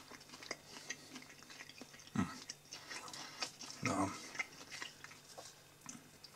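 Close mouth sounds of someone chewing a bite of breaded chicken nugget: many small wet clicks and smacks, with two brief, louder low sounds about two and four seconds in.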